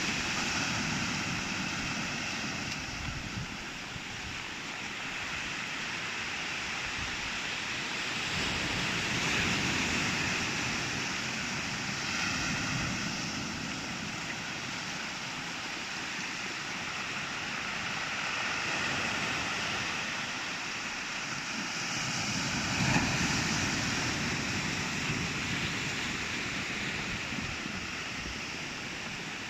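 Sea waves breaking and washing on the shore, a steady roar of surf that swells and fades as each wave comes in, with a sharper crash about 23 seconds in. There is some wind noise on the microphone.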